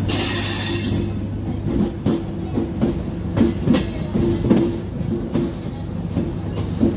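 Passenger train running along the track, heard from the coach: a steady rumble with irregular clicks and knocks as the wheels pass over rail joints and points. A brief hiss at the start.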